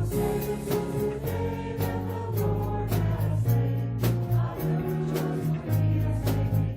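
Congregational hymn singing with instrumental accompaniment and a steady beat.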